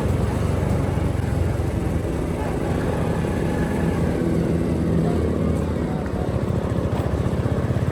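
Motorcycle engine running steadily while riding, a low rumble.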